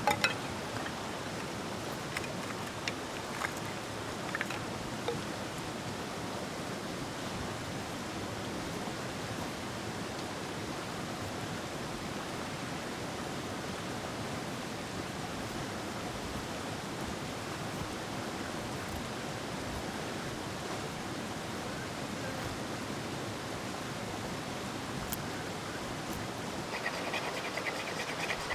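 Steady rushing of a nearby stream, with a few faint taps in the first few seconds.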